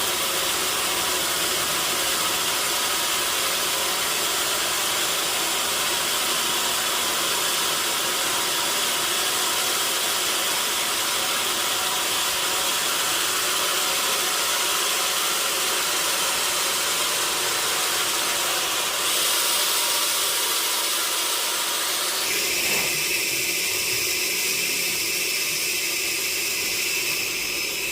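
Sawmill machinery running with a loud, steady hissing noise. Its tone changes about two-thirds of the way through, and again a few seconds later.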